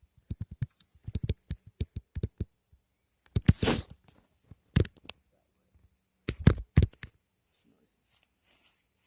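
Footsteps pushing through dry brush: a quick run of small crackles and twig snaps, then a few louder crunches and rustles of branches and leaves.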